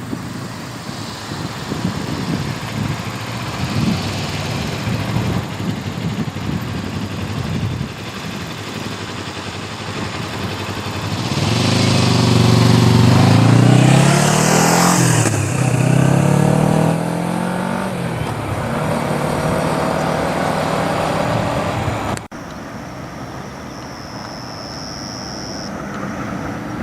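Road traffic with a motor vehicle engine passing close by about halfway through, its pitch rising and then falling. The sound drops off abruptly near the end.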